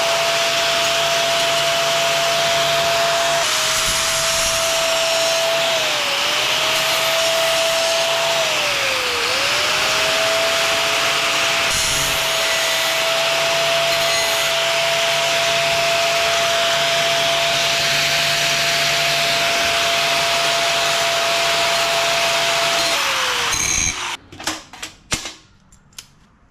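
Angle grinder grinding steel plate, its motor whine dipping in pitch a few times as it is pressed into the work. It is switched off near the end and winds down, followed by a few clanks of metal.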